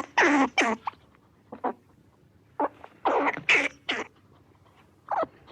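Animal calls: about ten short, pitched calls in quick groups of two to four, with pauses between the groups.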